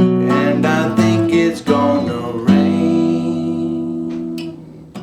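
Acoustic guitar strumming chords between sung lines. About two and a half seconds in, one chord is left to ring and fades away over roughly two seconds.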